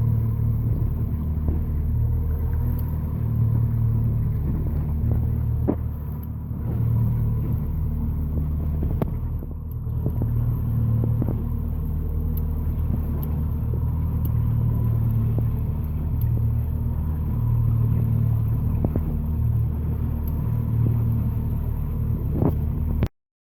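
Outboard motor running at a steady speed, a low even drone with a faint high tone over it, cutting off suddenly near the end.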